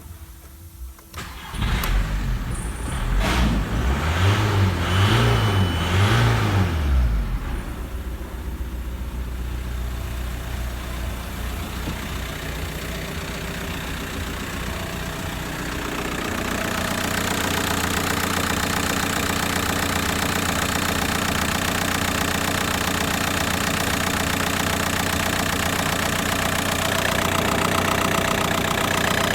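Ford Galaxy 1.9 TDI (ANU) four-cylinder turbodiesel cranking and starting about a second and a half in, revved up and down about three times, then settling into a steady idle that grows louder and brighter about halfway through.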